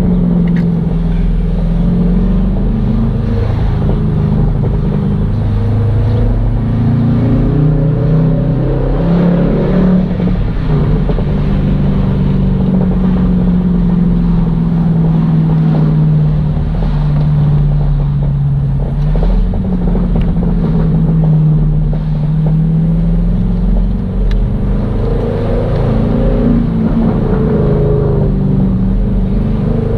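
Jeep Grand Cherokee SRT with its muffler deleted, driven hard: a loud engine and exhaust note that rises and falls several times as it accelerates and eases off.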